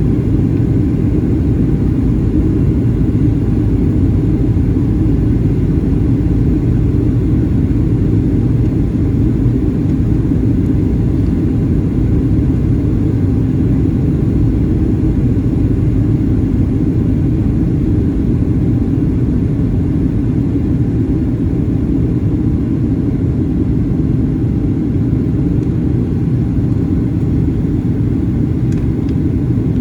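Steady low rumble of engine and airflow noise inside the cabin of a Boeing 737-800 in flight, with its CFM56-7B turbofans running. The rumble holds even throughout, with no changes in power or other events.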